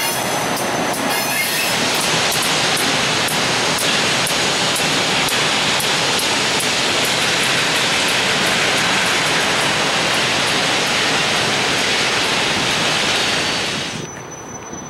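Freight train rolling past close by: a steady rushing rail noise with faint regular clicking. It drops off sharply near the end.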